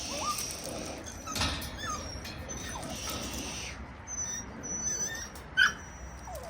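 Rottweiler puppies whining and yipping in short, high squeaks while they chase and tug at a toy. A sharp knock stands out about five and a half seconds in.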